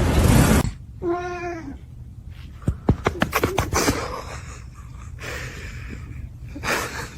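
A loud rushing noise cuts off suddenly just under a second in, then a cat meows once. A quick run of sharp clicks and taps follows.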